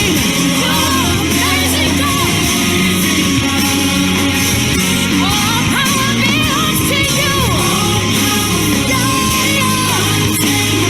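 Live worship band playing a praise song, with a voice singing over steady bass notes.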